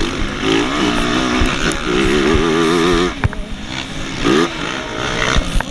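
Motocross motorcycle engine running, its pitch wavering up and down with the throttle, with a short rev about four seconds in.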